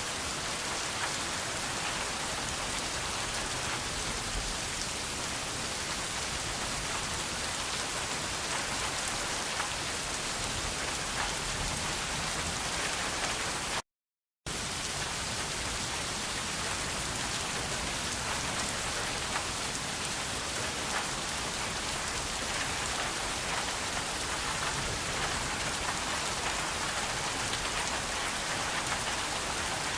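Steady rain falling, a dense hiss with many small drop ticks. The sound cuts out completely for about half a second midway, then resumes unchanged.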